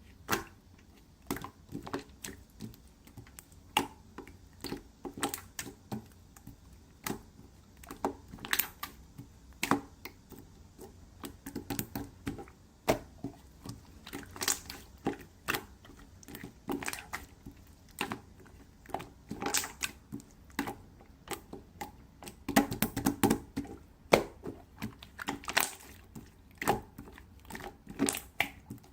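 Irregular sharp clicks and crackles, with a denser, louder run of them a little past the middle of the sound.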